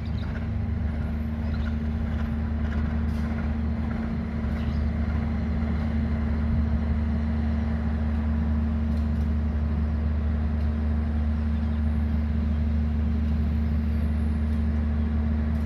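Diesel-electric locomotive engine running steadily at idle, a low steady drone.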